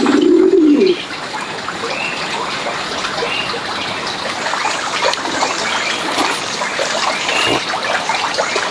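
Birds calling: a low cooing call lasting about a second at the start, then a steady chorus of many short chirps.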